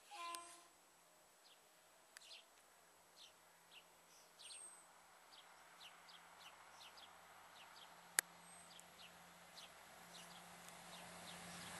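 Faint chirps of small birds repeating throughout, in an otherwise near-silent trackside quiet, with one sharp click about eight seconds in.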